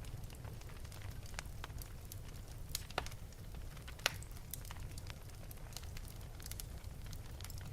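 Wood fire burning in an open fireplace: irregular sharp crackles and pops over a steady low rumble of flame, with two louder pops about three and four seconds in.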